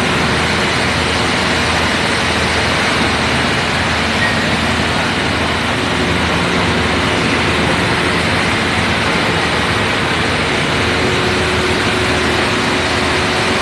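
Fire truck's engine idling steadily, a constant low hum under an even rumble.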